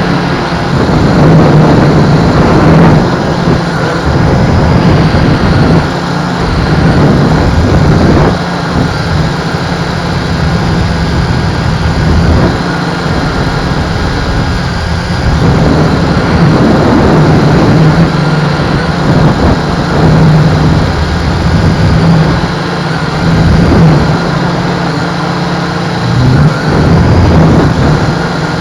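MJX X101 quadcopter's motors and propellers running with a steady hum, while strong wind buffets the microphone in gusts that swell and fade every few seconds.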